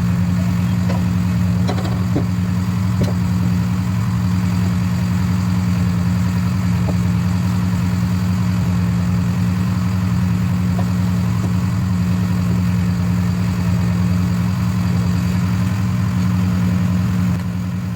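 An engine running steadily at constant speed, a loud even hum that falls away near the end.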